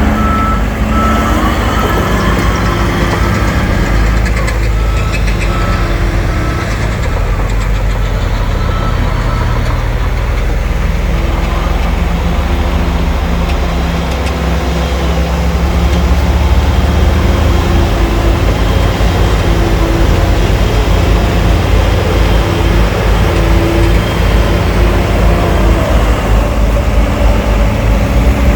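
Heavy diesel earthmoving machinery, a bulldozer and dump trucks, running steadily under load. A reversing alarm beeps in the first second or so and again at the very end.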